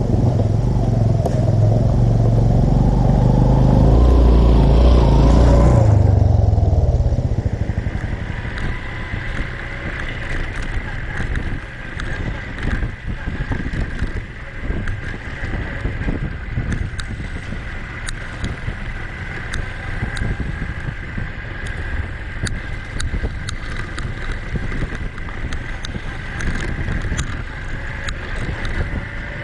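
Honda Cub motorcycle running while ridden, with wind buffeting the microphone. The low engine sound is loudest for the first six seconds or so, then drops away, leaving a steadier, thinner running sound with wind.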